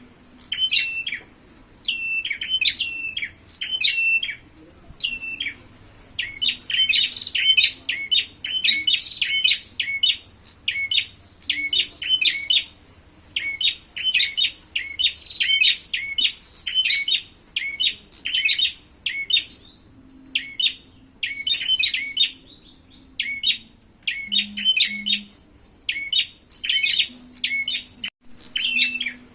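Prenjak birds chirping in quick, agitated runs, as in a fighting bout: sharp notes several a second, with short pauses between runs.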